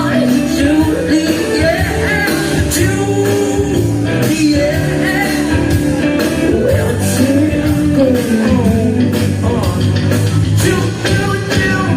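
Live rock band playing a song: a singer's melody over guitars, bass and a steady drum beat.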